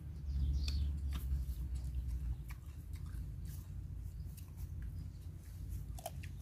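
A person chewing and biting food close to the microphone, with scattered short crunches and mouth clicks. A low rumble is heaviest during the first two seconds.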